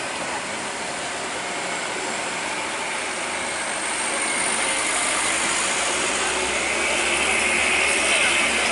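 Heavy tractor-trailer truck running under load, its engine rumble and road noise growing louder from about halfway through.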